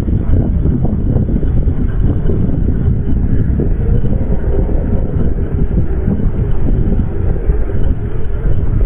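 A steady, loud, low rumbling noise without any clear tone or rhythm.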